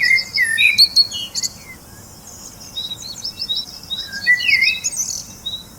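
Songbirds chirping and calling, with quick sliding notes and a short high note repeated evenly in the second half.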